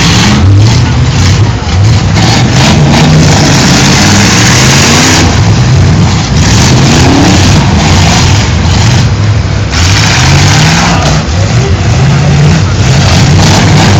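Several demolition derby car engines revving hard, with their pitch rising and falling again and again over a loud, steady noisy rush.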